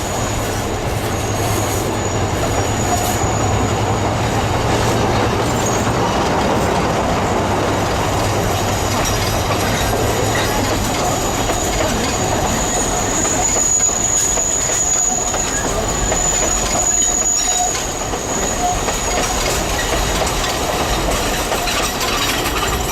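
DL31 diesel locomotive hauling a 762 mm narrow-gauge train past, its engine humming low for the first few seconds. The cars then roll by with a steady rumble and a thin, high wheel squeal that is strongest around the middle.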